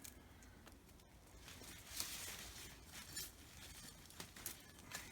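Faint rustling and crumbling of soil handled and dug by hand, with scattered small clicks and patters of earth and grit.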